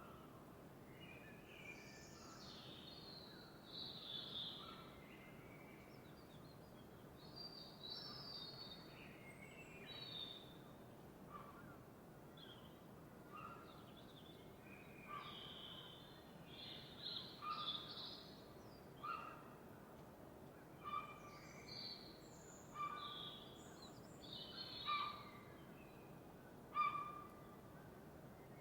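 Birds singing in a dawn chorus, several overlapping chirps and trills over a faint steady hiss. A short, lower call repeats every second or two through the second half.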